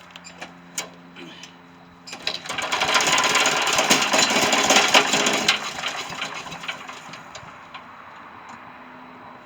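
Tecumseh engine of a vintage Yardman SC8 wood chipper being pull-started: a few light clicks, then about three seconds of rapid mechanical clatter from the cranking, sputtering engine that fades away without the engine catching.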